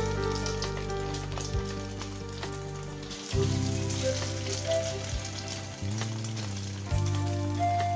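Egg-coated fish cutlets sizzling as they shallow-fry in hot oil in a wok, a steady crackling sizzle that swells about three seconds in as another cutlet is lowered into the oil.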